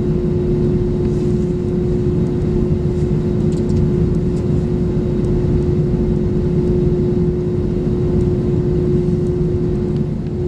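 Airbus A321neo engine and airflow noise heard inside the passenger cabin: a steady deep rumble with a steady hum over it.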